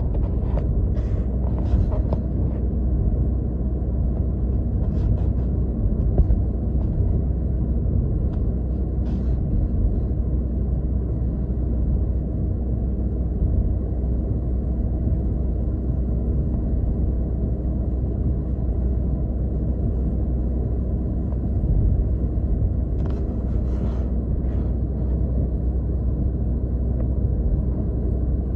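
Steady low rumble of a car's tyres and engine on the road, heard inside the cabin, with a few faint short ticks near the start and again about 23 seconds in.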